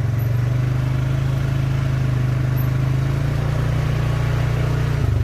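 Four-wheeler (ATV) engine running at a steady low speed, its note shifting slightly about three seconds in.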